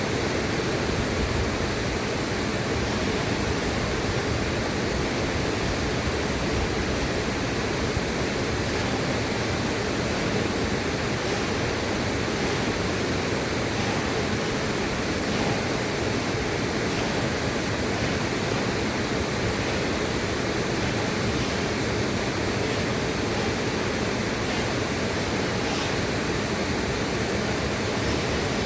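River water rushing steadily, an even, unbroken noise with no change over the whole stretch.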